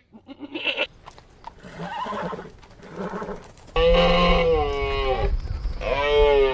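Horse whinnying: two loud calls whose pitch bends downward, the first about four seconds in and a shorter one near the end, after softer stuttering sounds.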